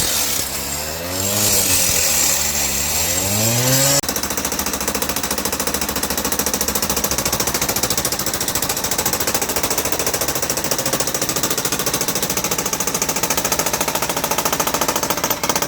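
A motor-like drone whose pitch rises and falls for about the first four seconds. It changes abruptly to a hammering power tool, such as a jackhammer or rotary hammer, running steadily with a fast, even rattle.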